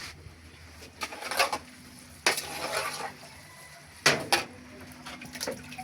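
A metal spoon scraping and knocking against a cooking pot in four short bouts, as the spaghetti is stirred.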